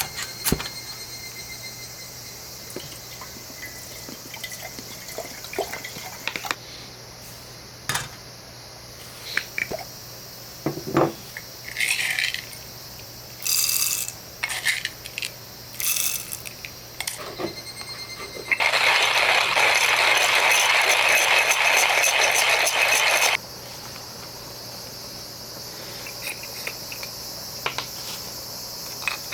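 Hard objects clinking, knocking and scraping as they are handled, with short rattling bursts. In the second half there are about five seconds of a loud, steady rushing noise that then stops abruptly.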